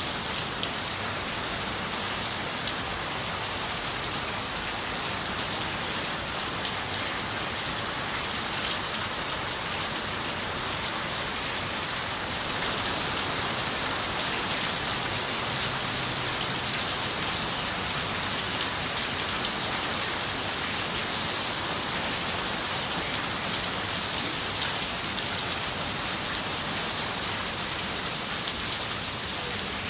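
Steady rain on a window pane: a dense, even hiss with scattered taps of single drops, growing a little heavier about twelve seconds in.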